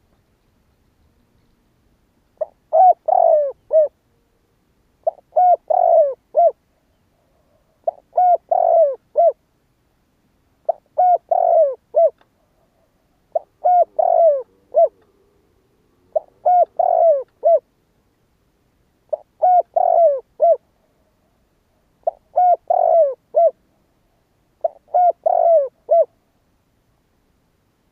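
Spotted dove cooing: nine repeated phrases of four or five short coos each, one phrase about every three seconds, starting a couple of seconds in. It is the cooing song that keepers play to call in and provoke wild spotted doves.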